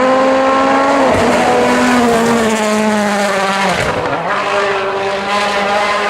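A World Rally car's 1.6-litre turbocharged four-cylinder engine running hard, its note breaking and shifting about a second in and again around four seconds in, and sliding slowly lower in between.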